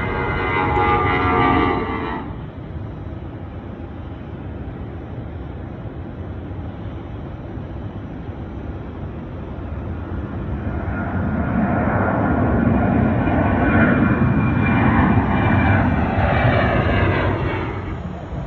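Jet airliner engines. A loud jet with a high whine cuts off suddenly about two seconds in, leaving a steady distant rumble. From about ten seconds in another jet grows louder, holds, and fades near the end.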